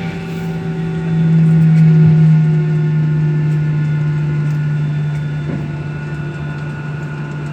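Steady hum of a Boeing airliner's jet engines heard from inside the cabin on the ground after landing. It swells about a second in, then eases as its pitch slowly falls.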